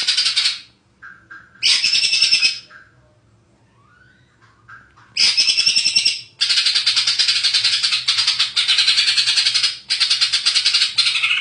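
Green leafbird (cucak hijau) singing: short bursts of rapid, dense chattering song, then a long unbroken run of song through the second half, with a few soft whistles between phrases.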